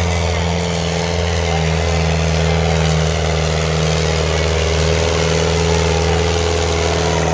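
Tractor diesel engine running loud and steady, a deep continuous drone with no change in pitch.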